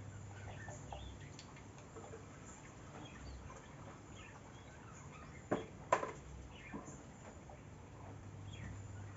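Scattered faint bird chirps over a steady low hum, with two sharp clicks close together a little past halfway.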